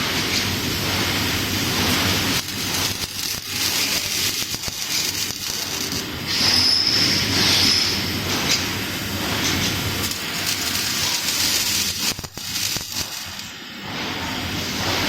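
Steady hissing, rushing machine noise of a multi-gun laser welding machine at work, with a brief high whine about halfway through.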